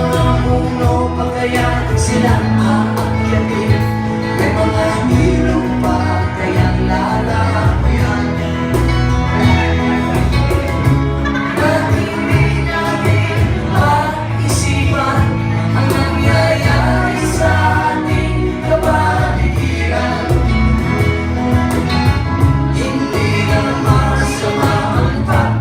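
Live band music: guitars, electric bass and keyboard, with singing.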